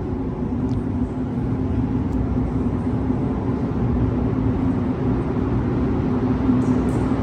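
Montreal metro train, a rubber-tyred subway train, running: a steady rumble with a constant low hum.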